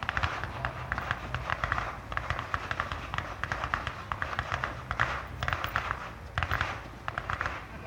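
Crackling fireworks: dense rapid pops in several clusters of a second or two each, with short gaps between them.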